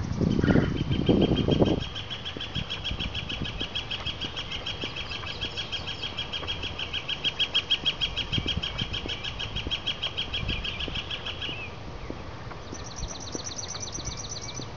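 A songbird's long, rapid, even trill, running about twelve seconds before stopping; a second, higher trill starts near the end. A low rumble sounds in the first two seconds.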